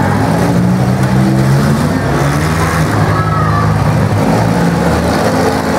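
Several demolition derby cars' engines running loud together, rising and falling a little in pitch as they rev.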